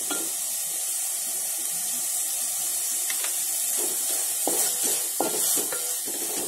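Onion-tomato masala and freshly added grated coconut sizzling steadily in hot oil in a steel pot, while a wooden spatula stirs it, with a few light scrapes against the pot between about three and six seconds in.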